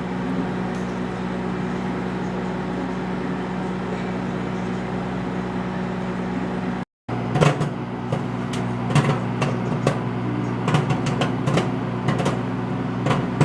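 Microwave oven running with a steady hum. From about seven seconds in, popcorn kernels pop in a paper bag over the hum: sharp, irregular pops that come more and more often.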